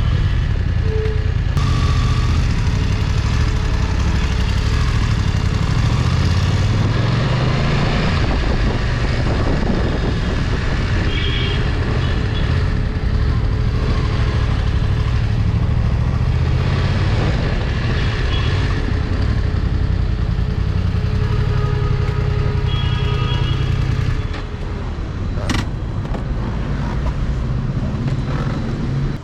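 Motorcycle engine running while under way, its pitch rising and falling with the throttle, over steady road and wind noise. It eases off a little near the end.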